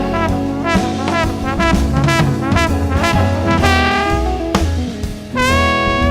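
Instrumental break of a soul song: brass playing a run of short, punchy notes, then one long held note with a slight waver about five and a half seconds in.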